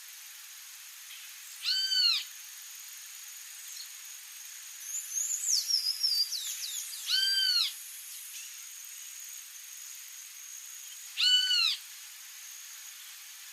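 Wild bird calling: a single drawn-out, arched note three times, roughly five seconds apart, with a burst of quick, high, falling chirps between the first two calls.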